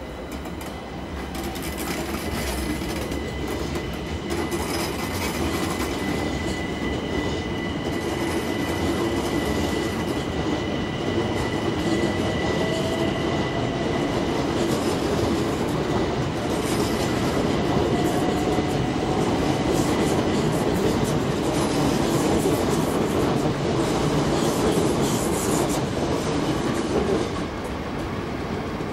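Electric multiple unit trains running along the tracks through the station: a continuous rumble and clatter of wheels on rail, with a steady high-pitched whine through the first half. The sound builds over the first several seconds and drops off a little before the end.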